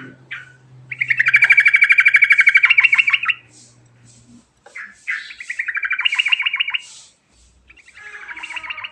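Yellow-vented bulbul (trucukan) singing three long, fast trills of rapidly repeated notes. The first starts about a second in, the second about five seconds in, and the third near the end.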